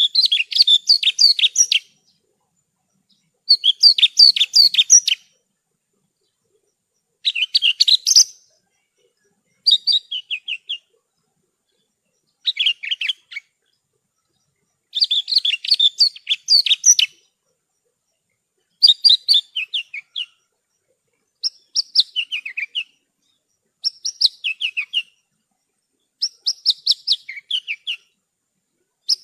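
Javan bush lark (branjangan) singing: about ten short phrases of rapid, high chirping notes, each a second or two long, with brief silences between them.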